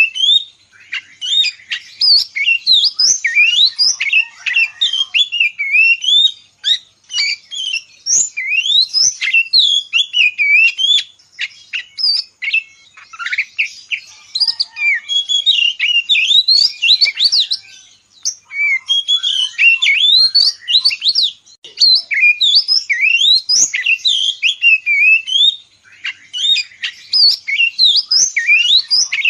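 Oriental magpie-robin singing a long, fast run of varied whistles, chirps and trills, broken by a few short pauses.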